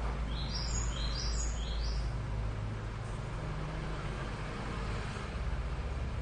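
A small bird chirping a quick run of about six short, falling notes in the first two seconds, over a steady low hum.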